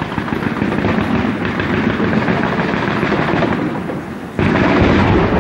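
Aerial fireworks going off in a dense run of crackling pops and bangs, with a sudden louder volley of deeper booms about four and a half seconds in.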